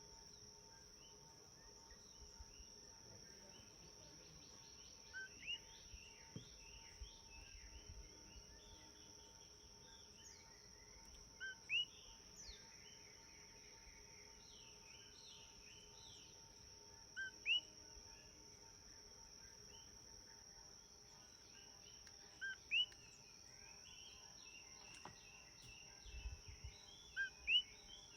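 Outdoor nature ambience: a steady high insect drone, like crickets, with a bird repeating a short rising call about every five to six seconds and softer chirps from other birds. A few low thumps come near the end.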